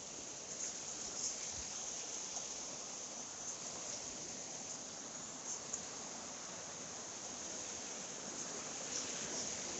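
Mountain stream water rushing steadily, with insects chirping high over it in short repeated bursts.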